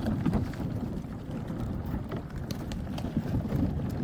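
A canoe pushing through floating ice chunks, with scattered small knocks of ice against the hull over steady wind rumbling on the microphone.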